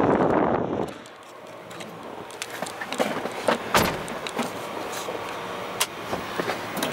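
A loud whirring noise cuts off about a second in, followed by scattered clicks and light knocks.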